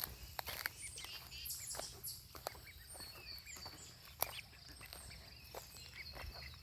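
Duckling peeping faintly in many short high chirps, with scattered footsteps and small knocks.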